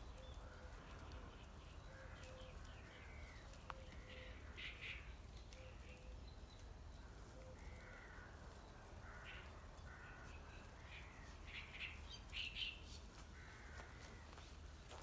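Faint outdoor bird calls: short chirps and arched calls repeating irregularly, over a steady low hum.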